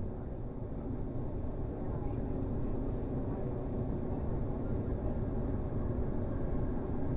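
Steady rumble and track noise of an electric suburban train running, heard from inside the carriage.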